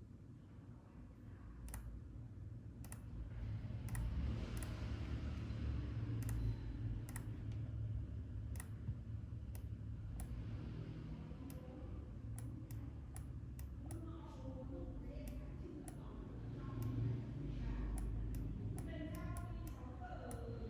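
Computer mouse clicks and keyboard key presses at irregular intervals, over a low steady hum.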